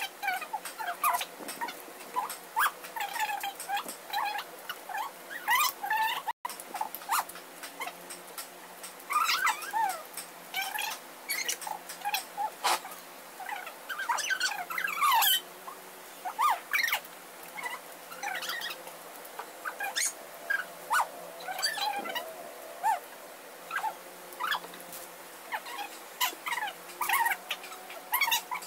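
Close-up eating sounds of pizza: chewing and lip-smacking, an irregular run of short wet clicks and smacks. The sound cuts out for a moment about six seconds in.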